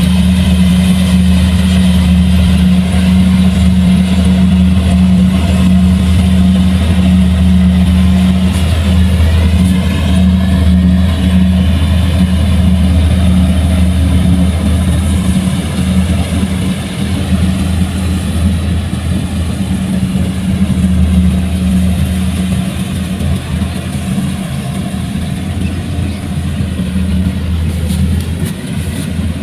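Heavy diesel farm machinery engine running steadily with a deep hum, its engine speed shifting briefly about ten seconds in and the sound easing slightly in the second half.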